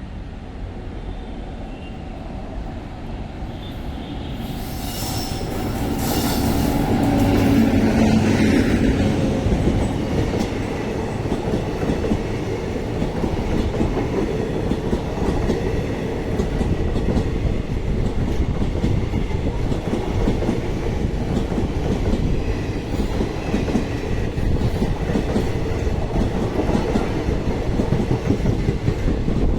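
Passenger express train approaching and running past on the rails: it grows louder over the first several seconds as the locomotive arrives, then the coaches roll by with a steady clickety-clack of wheels over rail joints.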